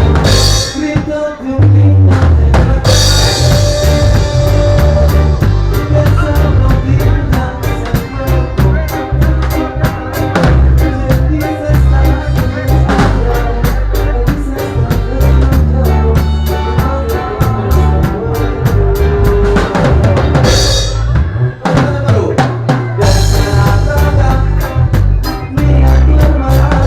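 Band music with a prominent drum kit of bass drum, snare and rimshots keeping a steady beat, with no singing.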